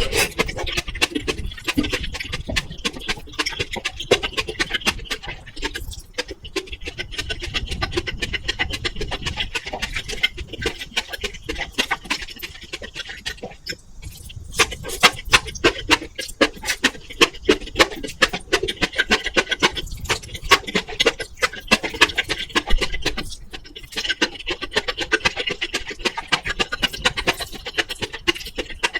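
Close-miked eating sounds: a dense run of wet, clicky chewing, mixed with crackle from a faulty microphone.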